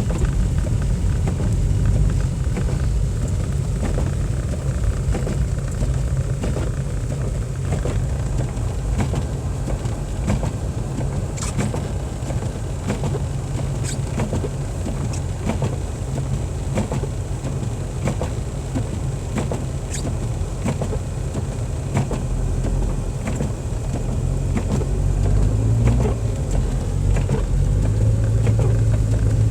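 Car driving, heard from inside the cabin: a steady low rumble of engine and tyres, with scattered light ticks over it. The engine hum grows stronger near the end.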